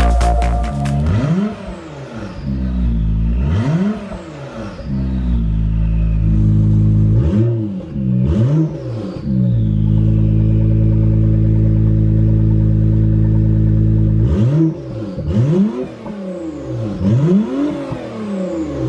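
Acura NSX twin-turbo V6 revved through a muffler-less 3-inch titanium exhaust. The engine is blipped again and again, its pitch rising and falling each time, and held at a steady note for a few seconds midway.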